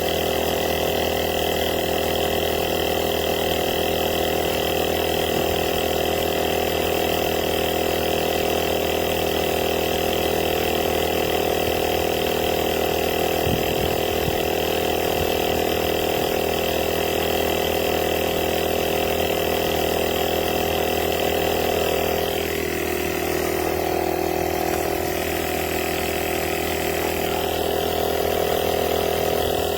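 Cordless portable tyre inflator's compressor running steadily, its tone shifting slightly about 22 seconds in.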